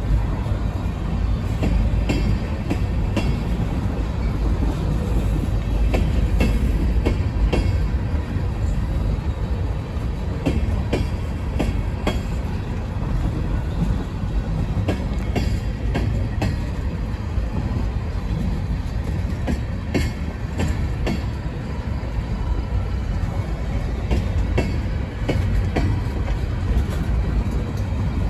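Freight train gondola cars rolling past at close range: a steady low rumble of steel wheels on rail, with scattered clicks and clanks as the wheels cross rail joints.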